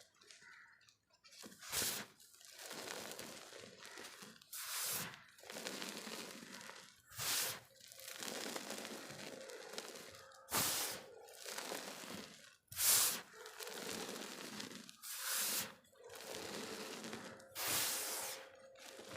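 Blue reformed chalk balls being crunched: seven sharp crunches roughly every two and a half seconds, with gritty crumbling and grinding between them.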